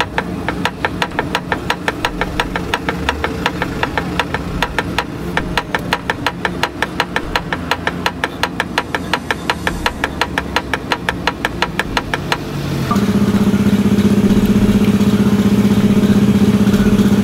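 Perodua Myvi engine running with a very loud exhaust, which the customer suspects is a detached exhaust pipe. For the first twelve seconds there is a regular ticking about three times a second. From about thirteen seconds in, a louder steady drone takes over.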